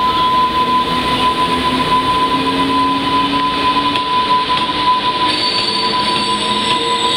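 JR Freight EH500 electric locomotive hauling a freight train as it pulls away from a stop, still out of sight: steady wheel-on-rail rumble under a steady high tone, with higher tones joining about five seconds in.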